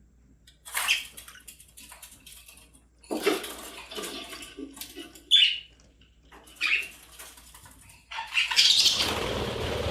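Pet budgerigars chirping and chattering in short bursts, with a louder rustling, flapping burst near the end.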